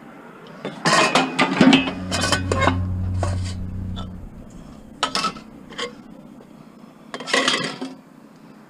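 Loose scrap metal pieces clanking and clattering as they are tossed in and handled, in several bursts of hits, with a low hum underneath for a couple of seconds.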